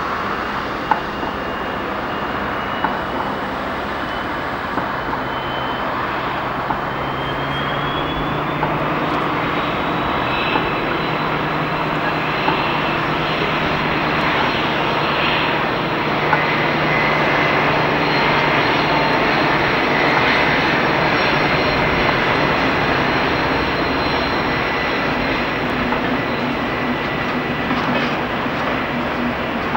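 Diesel train running through the station: a steady engine drone with a high whine that rises in pitch about a quarter of the way in, growing louder toward the middle, with occasional sharp clicks of wheels over rail joints.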